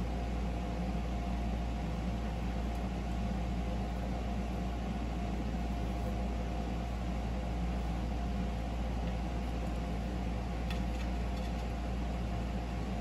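Steady mechanical hum with hiss, like an appliance or fan running, unchanging throughout, with a couple of faint ticks near the end.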